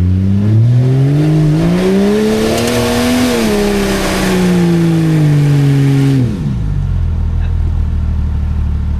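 Off-road 4x4's engine revving up hard over about three seconds, held high while it slowly eases off, with a rushing noise over it, then dropping sharply back to a steady idle about six seconds in.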